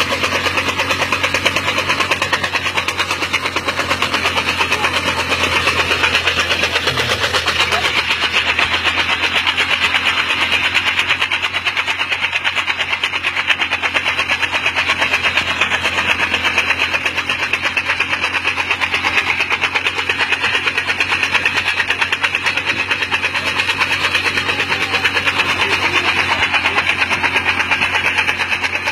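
Small motorcycle engine running steadily under load, driving a chaff cutter that chops green fodder.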